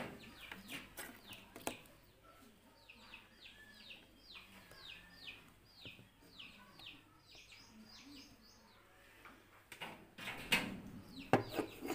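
A bird chirping in the background: a run of quick falling notes, about four a second, in the middle of the stretch. A few faint clicks come early on, and there is a short noisy rustle near the end.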